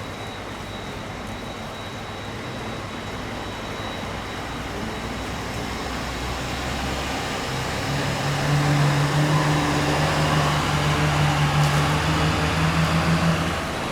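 Fire truck engine running and growing louder, with a strong steady engine hum from about eight seconds in that cuts off just before the end.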